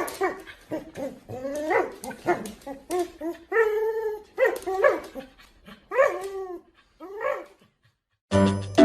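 A dog vocalizing in a run of short calls that rise and fall in pitch, with one longer held call about three and a half seconds in. Music starts near the end.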